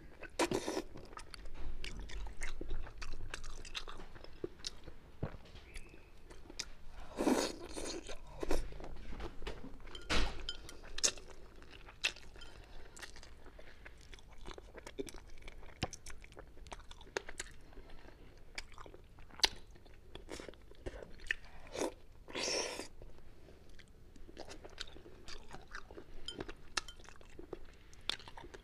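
A person biting and chewing a braised Chinese forest frog (snow frog) close to a clip-on microphone: wet mouth sounds with many small clicks.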